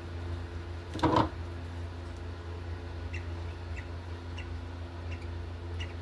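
Baby lovebird chicks making short, faint food-begging peeps every half second or so while being hand fed, with one louder, brief sound about a second in, over a steady low hum.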